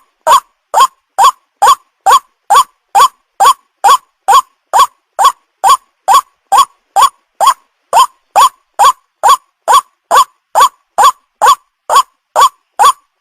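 White-breasted waterhen lure call: a short call rising in pitch, repeated at a perfectly even pace of about two calls a second, as a looped recording made to attract young birds.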